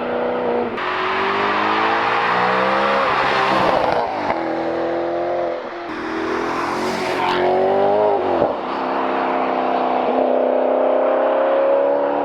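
Maserati GranTurismo MC Stradale's 4.7-litre naturally aspirated V8 accelerating hard, its note climbing in pitch through the gears, with sharp upshifts about four and eight and a half seconds in.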